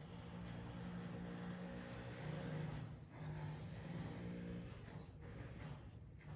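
Fire burning in a rusty metal can: a steady rushing roar with a low hum, dipping briefly about three seconds in and twice near the end.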